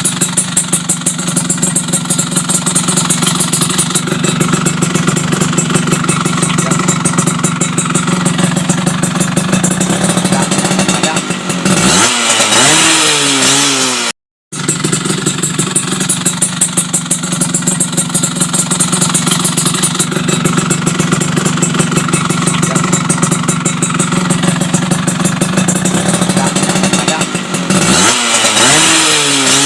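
Yamaha F1ZR's two-stroke single-cylinder engine, breathing through an aftermarket WRS racing exhaust, idling steadily with a fast, crackly beat. It is blipped up and back down once about twelve seconds in and again near the end, with a brief dropout just after the first rev.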